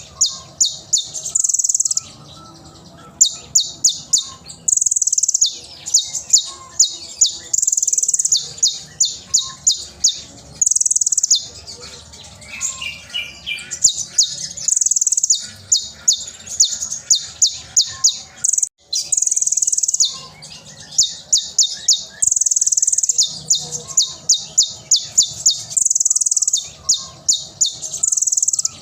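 Kolibri ninja (konin) sunbird singing: a very high, sharp song of rapid staccato notes fired in quick runs, broken every few seconds by a short sustained trill, repeating over and over.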